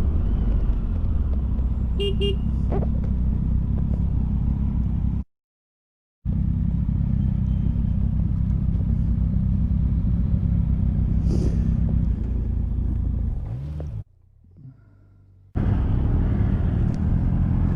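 Motorcycle engine running steadily on the road, a low drone with wind rush. A short double horn toot about two seconds in. The sound cuts out abruptly twice, once to silence for about a second and once to a quiet stretch.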